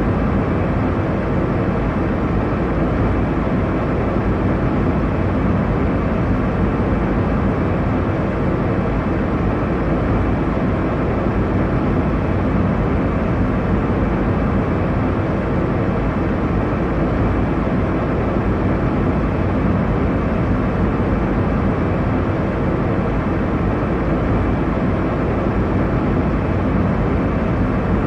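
Airliner cabin noise in cruise: a steady, even rush of engine and airflow noise, heaviest in the low range, with no change throughout.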